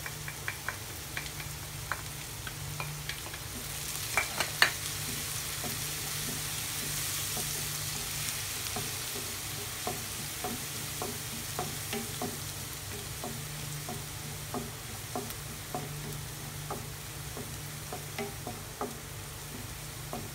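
Chopped onion and garlic sizzling in oil in a frying pan, stirred with a wooden spatula that clicks and scrapes against the pan. The sizzle swells from about four seconds in, with two sharper knocks of the spatula on the pan there, over a low steady hum.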